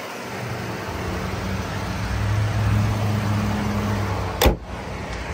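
Cadillac SRX V6 engine idling with a steady low hum. About four and a half seconds in, the hood slams shut with a single loud thud.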